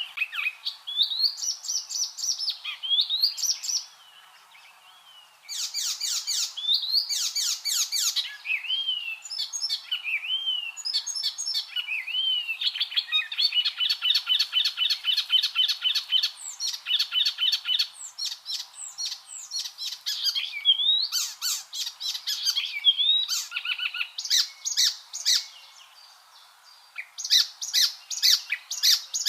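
Icterine warbler singing: a long, varied song of fast chattering notes, trills and sliding whistles, with short pauses about four seconds in and again near the end.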